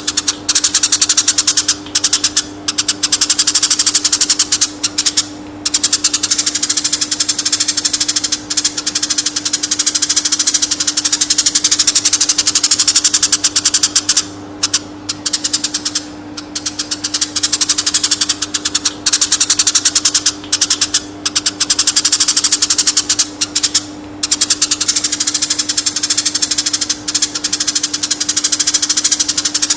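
Eurasian tree sparrows chirping in a fast, dense, unbroken chatter, with a few brief pauses, over a steady low hum.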